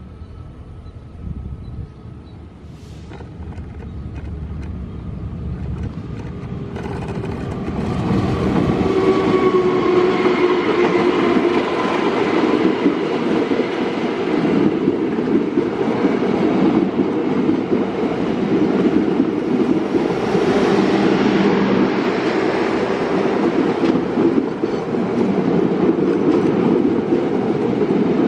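A train approaching, growing steadily louder over about eight seconds, then passing close by with a loud, continuous rumble and the clatter of wheels on the rails.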